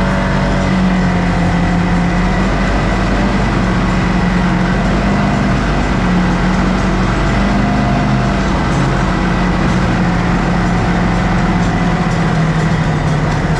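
Motor vehicle driving steadily, its engine hum holding a fairly even pitch that dips slightly near the end, over continuous rumble from the ride across rough ground.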